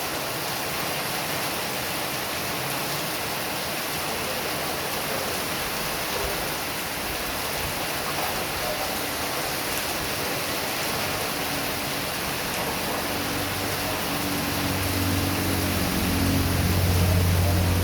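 Heavy rain falling steadily in an even hiss. From about three quarters of the way through, a low vehicle engine hum rises and becomes the loudest sound near the end, as a vehicle comes closer.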